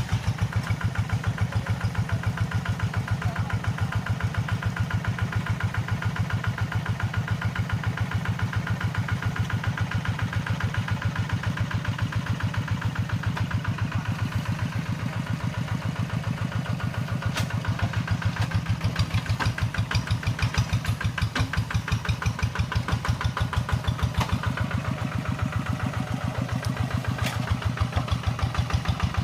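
Tractor engine running steadily, its firing heard as an even, rapid chugging pulse.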